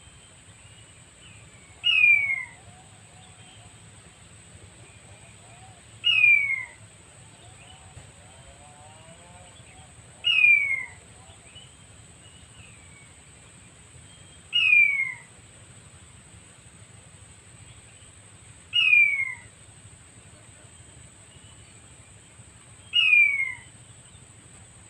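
Quail call, a short whistle falling in pitch, repeated six times at even intervals of about four seconds. The calls are identical and evenly timed, like a recorded call played on repeat to lure wild quail to the trap.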